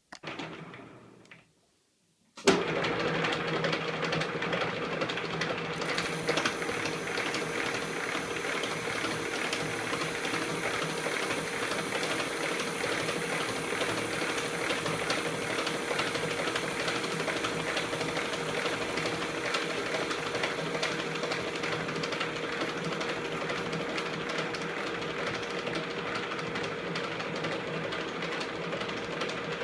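E1N metal lathe switched on about two seconds in, starting suddenly and then running steadily with a constant hum-like tone over its mechanical noise.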